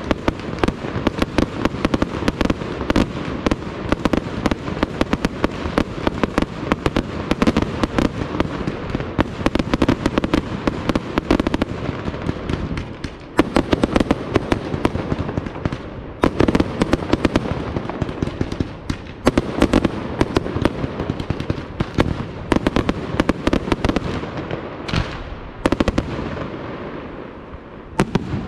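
Aerial fireworks display: a dense, rapid run of pops and crackles from bursting shells and crackling stars, with heavier bangs here and there. It thins out near the end to a few separate reports.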